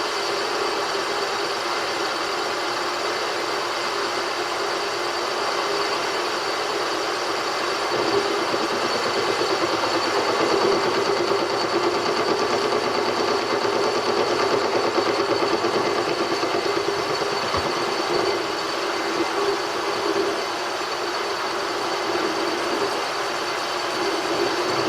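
Machine spindle running steadily while a boring tool cuts, opening up a bore a few thousandths at a time; it grows a little louder for a stretch in the middle.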